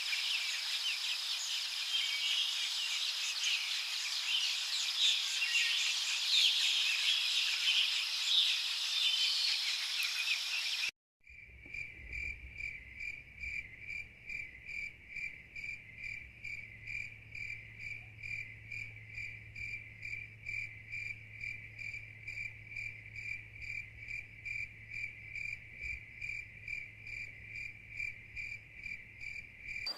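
A dense chorus of many songbirds chirping, which cuts off abruptly about 11 seconds in. A cricket then chirps steadily in an even rhythm of about two chirps a second.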